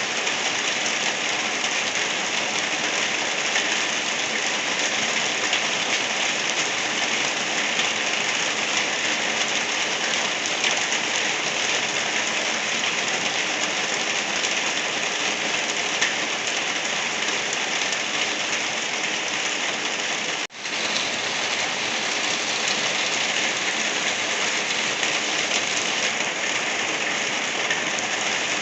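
Steady rain falling, an even, dense hiss of drops on surfaces. About two-thirds of the way through it cuts out for a split second before carrying on.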